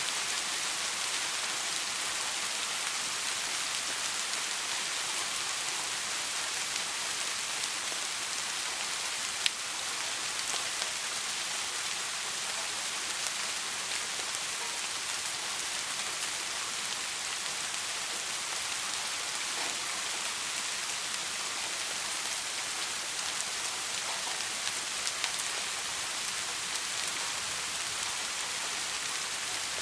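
Steady soft rain: an even hiss with scattered drop ticks and one sharper click about a third of the way in.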